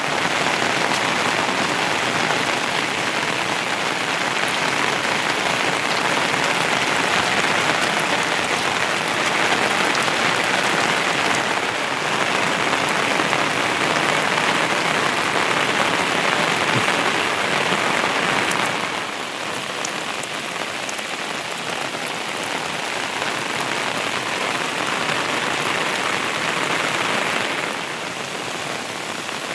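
Heavy rain falling steadily, a dense even hiss. It drops in loudness abruptly about two-thirds of the way in, then again near the end.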